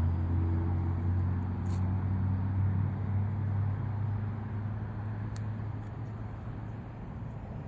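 Brushless electric motor and 6x5.5 propeller of a small foam RC plane droning steadily in flight at part throttle, slowly getting fainter.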